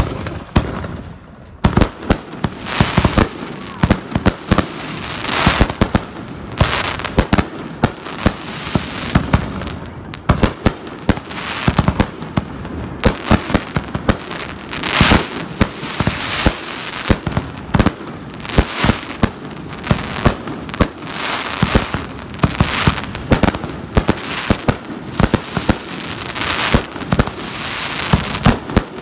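Consumer aerial fireworks launching and bursting in quick succession: many sharp reports, often overlapping, over a continuous hiss and crackle.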